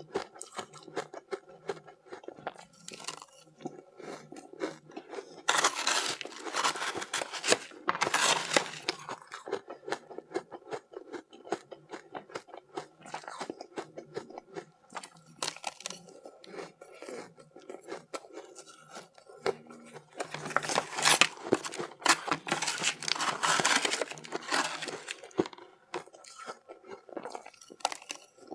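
Close-miked biting and chewing of soft, powdery matcha-dusted ice: loud crunching bites about six to nine seconds in and again about twenty to twenty-five seconds in, with quieter crackly chewing between them.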